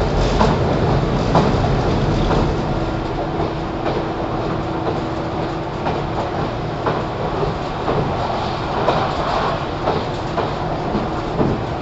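Interior running sound of a JR 413 series electric train inside its motor car: a steady rumble of wheels on rail, with irregular sharp clacks as the wheels pass over rail joints.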